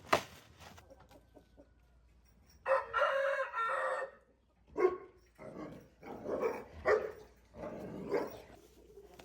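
A rooster crowing once, about three seconds in, a single call lasting over a second, followed by chickens clucking in short bursts.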